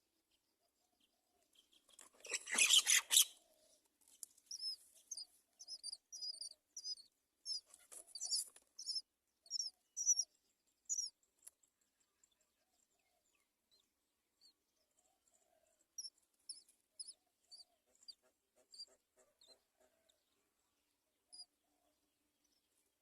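Common myna nestlings begging for food: a loud harsh burst about two seconds in, then runs of short high chirps, a pause, and more chirps near the end.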